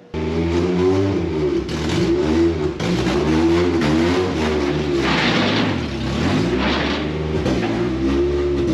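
Honda B20 four-cylinder engine in a Civic hatchback revving hard under acceleration, its pitch climbing and dropping several times through the gears. A brief rushing hiss comes in midway.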